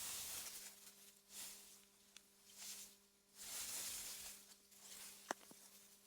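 Wind gusting through meadow grass: a soft hiss that swells and fades several times, over a faint steady hum. A single sharp click about five seconds in is the loudest sound.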